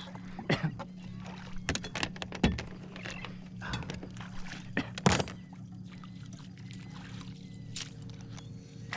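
Water sloshing and splashing at a kayak's side while a fish is brought in, with scattered sharp knocks and clicks over a steady low hum.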